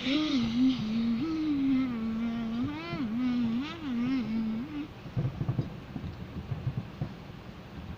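A voice humming a wavering, sing-song tune for about five seconds, its pitch rising and dipping between held notes. It stops, and low rumbling thumps follow in the second half.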